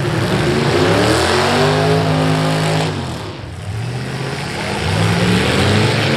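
V8 demolition derby car engine revving. The pitch climbs over the first second or so, holds, and drops away about three seconds in, then climbs again near the end.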